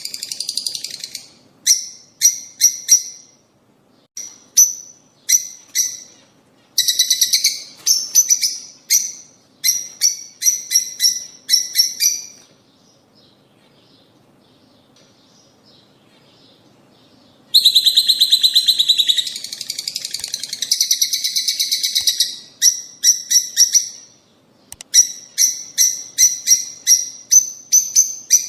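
Lovebirds chirping in quick runs of sharp, high-pitched calls. The calls stop for about five seconds near the middle, then return as a dense stretch of continuous chattering, followed by more runs of chirps.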